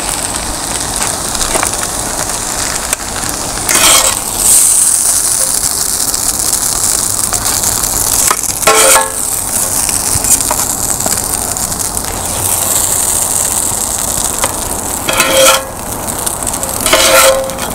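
Kothu roti sizzling on a hot iron griddle, a steady hiss. Metal kothu blades scrape and clank against the griddle four times, with a brief metallic ring, as the food is scooped up.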